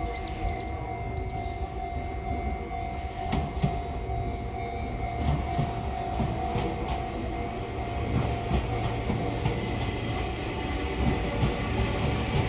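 Sotetsu 8000 series ten-car electric train passing, its wheels clicking over rail joints above a steady running rumble.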